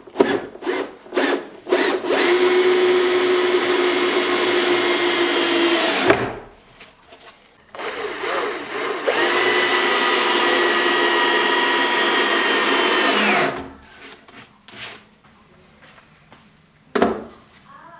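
Electric power drill running at steady speed in two long runs of about four and six seconds, each winding down as the trigger is released, with a few clicks and knocks around them.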